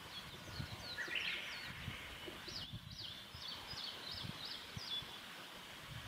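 A small bird singing a rapid series of high, sweeping notes in two phrases, with a louder, rougher burst about a second in.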